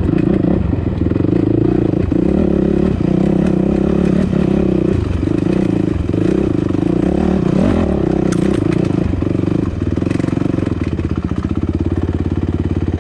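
Dirt bike engine pulling hard up a rocky climb, the throttle opening and closing unevenly, with a few knocks from the rocks about eight seconds in. About ten seconds in it drops to a steady idle.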